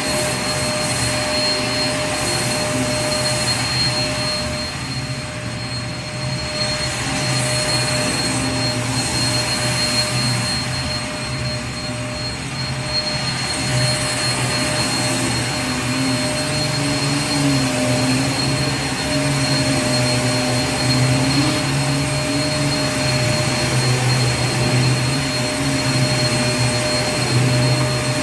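Vacuum cleaner running steadily: a constant airy rush with a thin steady whine over a low motor drone that wavers slightly in pitch from about halfway through.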